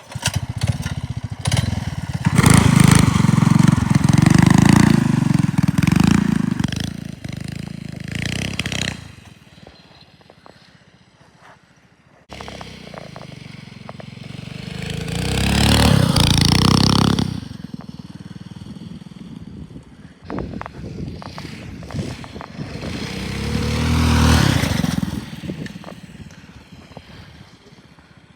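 Small minibike engine running hard under throttle: a long loud run in the first several seconds, then two passes that swell and fade, around the middle and again near the end.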